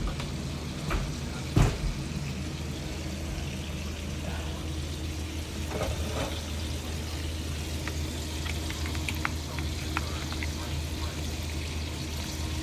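Food frying in hot oil in a pan, a steady sizzle with scattered crackles and pops in the second half. There is one sharp knock of a utensil or pan about a second and a half in, and a steady low hum underneath.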